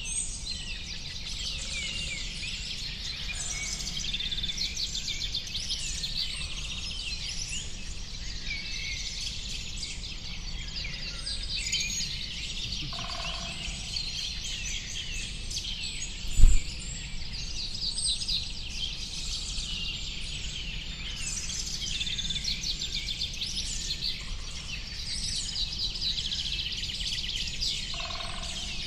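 A dense chorus of many small birds chirping and twittering without a break, over a steady low rumble. A single low thump stands out about halfway through.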